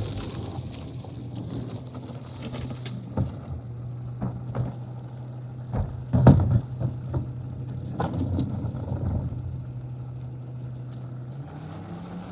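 Garbage truck engine running at a steady idle, with scattered knocks and thumps, the loudest about six seconds in. The engine pitch rises near the end.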